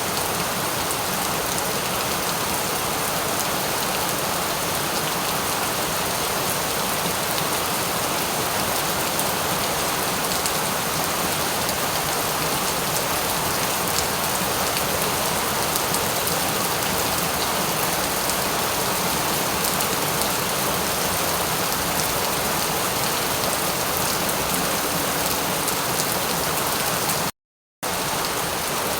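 Steady rain falling on a surface, an even hiss with fine drop patter. About 27 seconds in, the sound cuts out completely for about half a second, then resumes.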